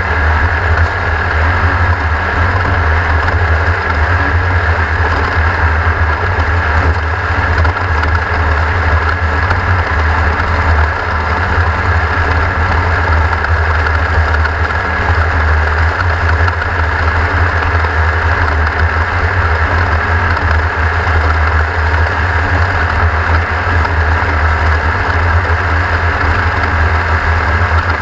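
Off-road race car engine running at a steady pace, loud, with a heavy low rumble and no clear revving up or down.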